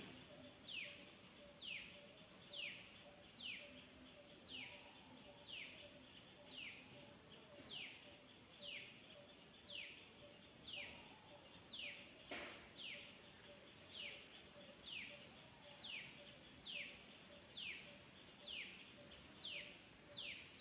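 A bird repeating a single short downward-sliding whistle, about once a second, in a steady unbroken series, faint, with a faint steady hum beneath and one sharp click about twelve seconds in.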